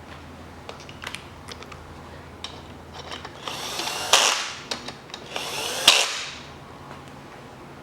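Cordless power tool run in two short bursts, about a second each, likely spinning in bolts while the timing chain guide and tensioner are fitted. A few small metal clicks of parts and tools being handled come before the bursts.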